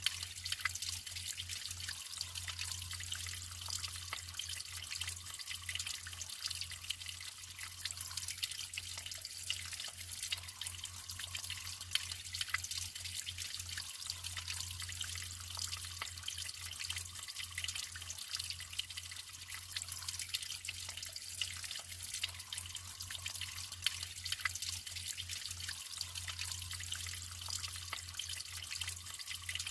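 Natural running water trickling and splashing steadily, with many small drips and droplet ticks.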